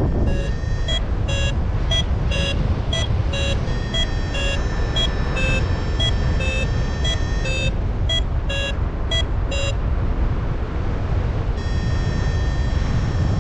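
Paraglider variometer beeping in quick short pips, about two a second, which signals that the glider is climbing in lift. The beeps stop about ten seconds in. Heavy wind rushes over the microphone throughout.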